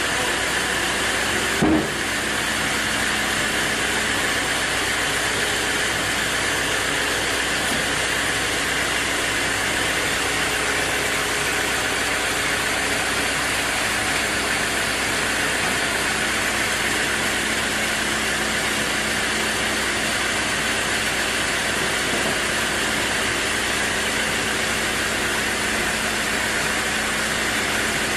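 Sawmill machinery running steadily, a constant engine-like hum with hiss, with one brief loud knock just under two seconds in.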